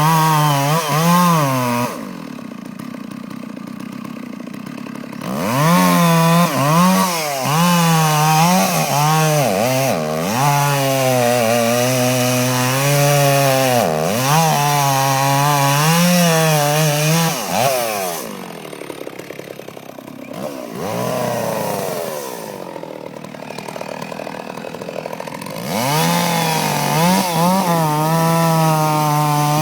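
Stihl 066 two-stroke chainsaw cutting wood at high revs, its pitch wavering as the chain bites. It twice drops back to a lower idle, once a few seconds in and again for several seconds past the middle, before revving up again near the end.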